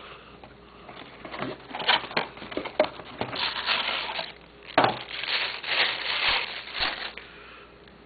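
Camera box packaging being handled and unwrapped: irregular rustling and crinkling with clicks and light knocks, in several bursts, the loudest about five seconds in.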